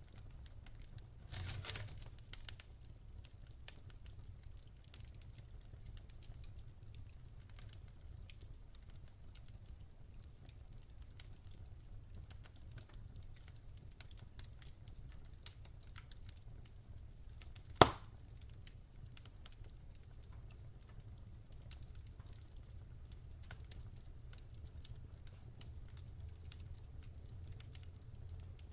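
Campfire crackling: wood burning with scattered small snaps over a low rumble, a brief hiss about a second and a half in, and one loud sharp pop a little past halfway.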